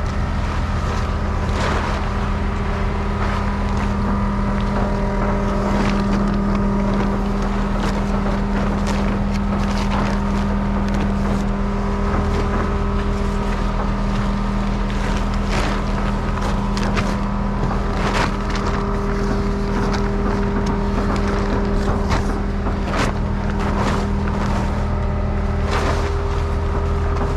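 Heavy equipment engine running steadily at a constant speed, with scattered knocks and clicks throughout.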